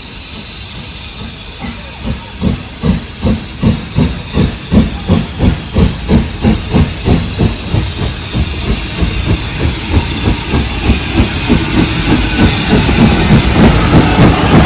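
Steam locomotive pulling away: a hiss of steam, then exhaust chuffs that start about two a second and quicken steadily, getting louder until they run together near the end as the engine gathers speed.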